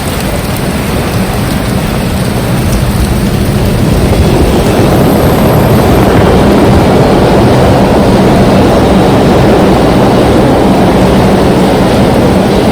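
Heavy rain and strong wind, loud and dense, swelling a few seconds in and then holding, with a low steady hum underneath.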